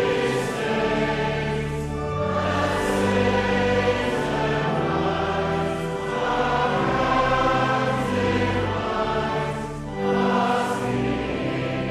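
A choir singing a hymn in slow, sustained chords that change about every one to two seconds.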